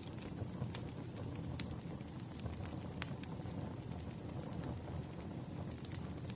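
Firewood burning: a steady low rumble of flames with scattered sharp crackles and pops from the wood.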